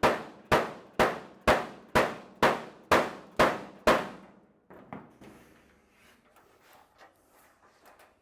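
A steady run of hammer blows on the sheet-steel trunk lid of a 1928 Ford Model A, each one clanging and ringing briefly, about two a second and nine in a row, then stopping and leaving a few faint clanks. The lid is being bent back after it was pushed too far.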